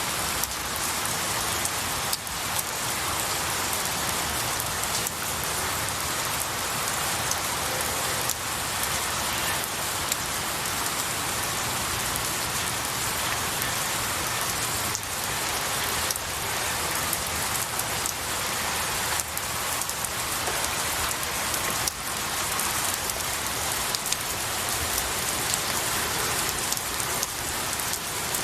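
Steady rain falling on pine needles and a tree, a dense even hiss with scattered individual drops.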